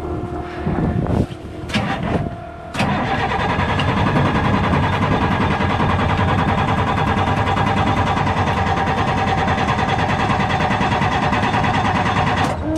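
Truck engine being cranked by its starter without catching: a couple of short cranks, then one long steady crank of about ten seconds that stops abruptly. The truck won't start.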